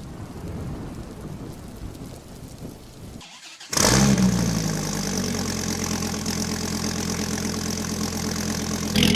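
Dodge Viper SRT10's 8.3-litre V10 starting up about four seconds in, flaring briefly and then settling into a steady idle.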